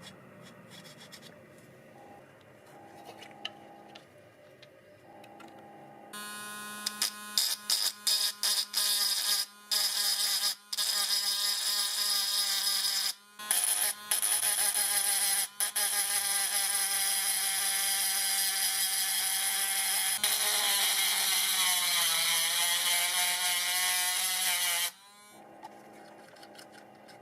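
Small handheld electric rotary tool whining at high speed, first switched on and off in short bursts, then running steadily. Near the end its pitch sags for a few seconds as it bears on the work, then it stops. Faint handling sounds come before it starts.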